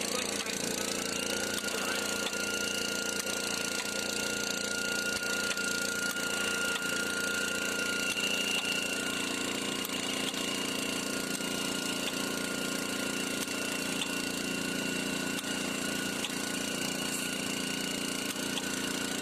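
Small water-well drilling rig running steadily as drilling begins, together with the motor pump that feeds it water, with a steady high whine that sets in about a second in.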